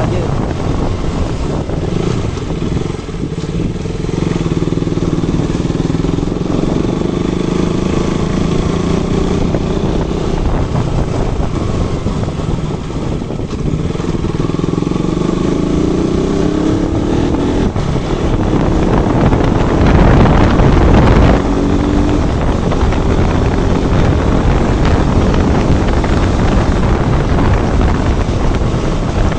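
KTM RC 200's single-cylinder engine running while the bike is ridden, its pitch climbing and dropping again and again with throttle and gear changes, under steady wind rush on the microphone. About two-thirds through there is a brief, louder rush of noise.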